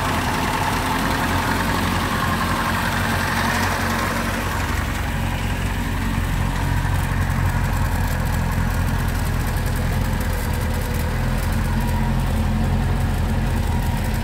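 1953 Land Rover Series I's 2-litre four-cylinder petrol engine idling steadily with the choke partly pushed in.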